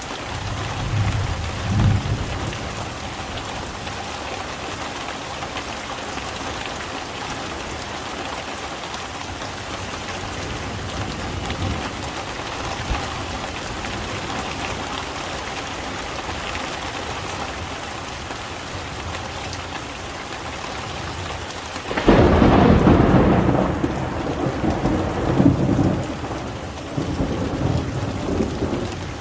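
Steady heavy rain falling, with thunder: a low rumble about a second in, then a loud thunderclap about three quarters of the way through that rolls on for several seconds.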